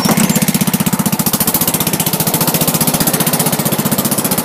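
1996 Craftsman lawn tractor engine running steadily after a cold start, with an even, rapid pulse.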